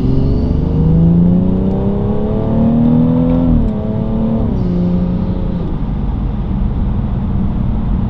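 BMW 340i's B58 turbocharged inline-six, fitted with an MST cold air intake, accelerating: the engine note climbs for about three and a half seconds, then drops in two steps as the gears change and settles into a steady drone.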